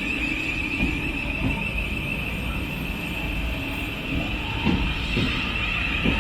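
Thameslink Class 700 electric train moving through the station, with a steady high whine over a low rumble and a few knocks near the end.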